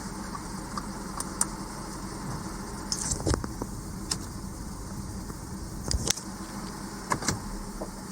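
Audi A5's 2.0 TFSI turbocharged four-cylinder (CDN) engine idling steadily, with a few scattered sharp clicks.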